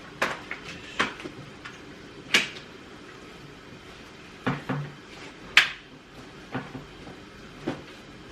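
Hard stroller parts knocking and clicking as a rear wheel is handled and fitted onto the frame: a series of separate sharp knocks and clicks, about eight, the loudest a little past halfway.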